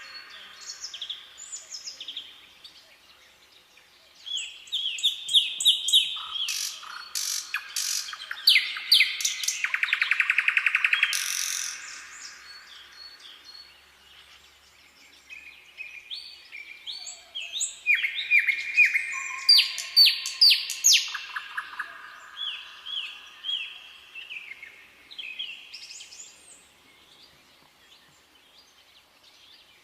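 Songbirds singing: bouts of quick repeated chirps and rapid trills from more than one bird, overlapping at times, with short quieter lulls between bouts.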